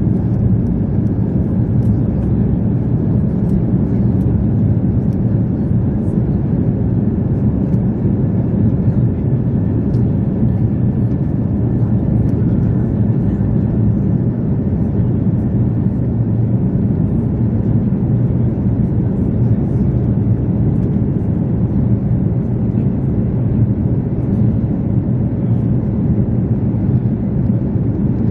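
Airbus A340-300 jet airliner, with its four CFM56 turbofan engines, making a steady low rumble that holds at an even level.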